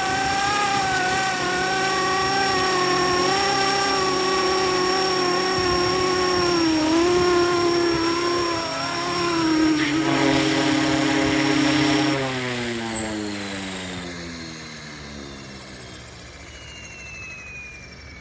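Scale RC helicopter's electric motor and rotor running steadily with a high motor whine. About twelve seconds in the power is cut, the whine stops, and the rotor winds down with steadily falling pitch as it spools down.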